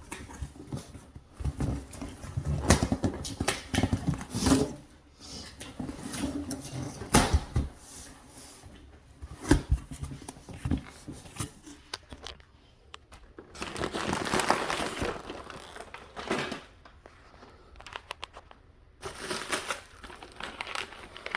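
Shipping box being opened and handled: repeated knocks and clicks, with tearing and rustling of packaging, longest about two-thirds of the way through.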